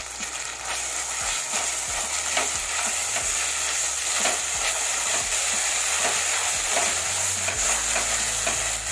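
Sliced onions and ginger-garlic paste sizzling in hot oil in a metal pot, with a spatula stirring and scraping through the frying. The sizzle grows louder about a second in.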